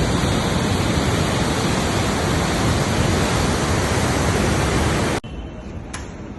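Steady rushing roar of a river in flood, a dense wall of water noise with no let-up. It cuts off abruptly about five seconds in.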